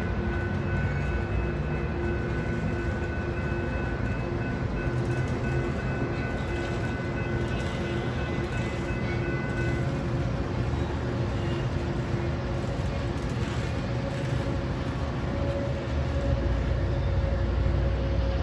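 Sounder commuter train's bilevel passenger coaches rolling past, a steady rumble of wheels on rail. Several steady high tones sound over it and stop about ten seconds in, and the low rumble grows louder near the end.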